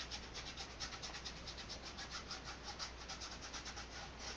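Flat nylon paintbrush scrubbing acrylic paint in quick, repeated back-and-forth strokes, several a second, with a dry rubbing, scratchy sound.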